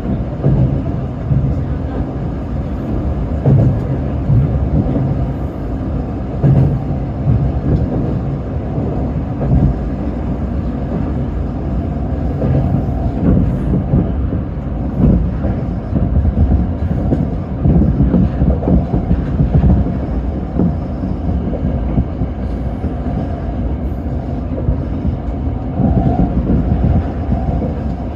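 Electric commuter train of the Tōyō Rapid Railway running between stations, a steady rumble of wheels on the track with small irregular swells.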